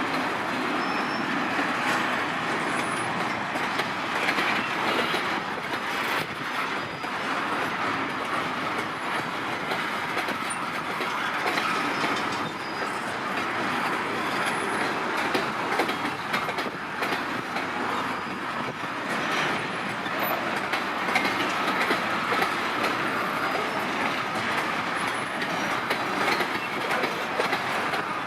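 A long freight train of tank wagons rolling past, its wheels clattering steadily over the rail joints. In the later part a faint, thin wheel squeal sounds over the clatter.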